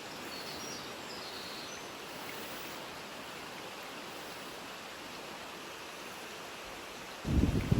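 Outdoor mountain ambience: a steady, even rushing noise. About seven seconds in, a sudden loud, gusty low rumble of wind buffeting the microphone cuts in.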